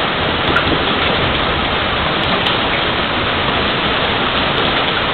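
Hail falling heavily and steadily, a dense, even rush of hailstones striking without a break.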